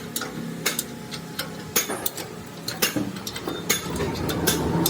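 Light, irregular clicks and knocks of hand tools on metal parts, roughly one or two a second, over a low background hum.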